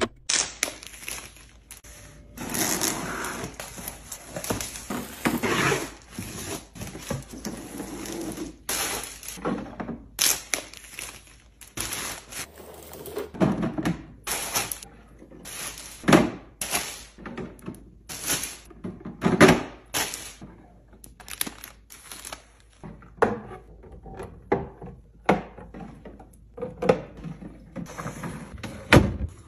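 Groceries and storage containers being handled and set down during a fridge restock: an irregular run of sharp knocks, clicks and clinks with rustling handling noise between them.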